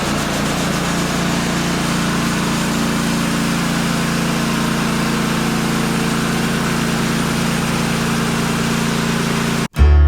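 An engine running steadily at a constant speed, with no change in pitch. It cuts off abruptly near the end, and acoustic guitar music starts.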